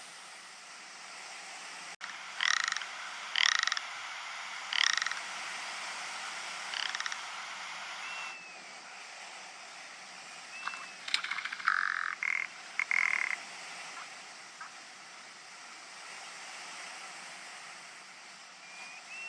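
Ptarmigan giving croaking, rattling calls: four short rattles in the first seven seconds, then a louder cluster of rattling calls around 11 to 13 seconds. A steady hiss runs underneath.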